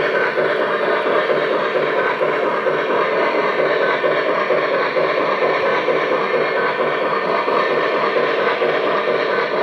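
Lionel Legacy Erie 4-6-0 O-gauge model steam locomotive running on the layout: a steady, loud running noise of wheels on the track and its onboard steam sound effects.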